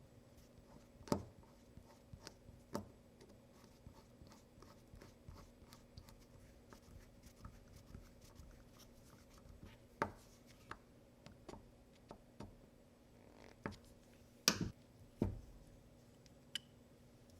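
Scattered small clicks, taps and knocks of objects being handled, a few sharper knocks among them, over a faint steady hum.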